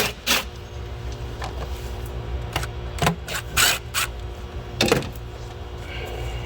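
Jeep Liberty 3.7-litre V6 idling steadily, with several sharp knocks or clatters over it, the clearest about three and five seconds in.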